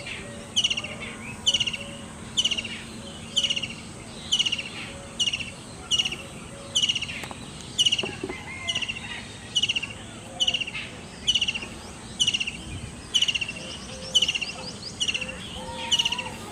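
A bird calling over and over, one short high call about once a second.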